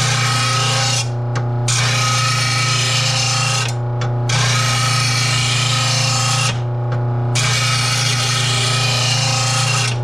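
Electric blade grinder sharpening a steel mower blade: the motor hums steadily while the blade is held against the spinning disc with a hissing grind, which stops three times for a moment as the blade is lifted off.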